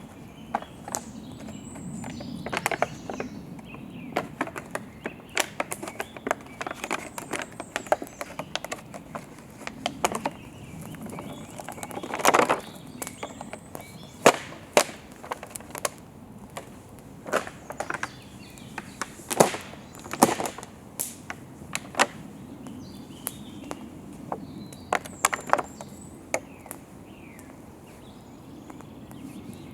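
Wood campfire crackling, with irregular sharp pops and snaps, a louder crackle about twelve seconds in. Faint bird chirps behind.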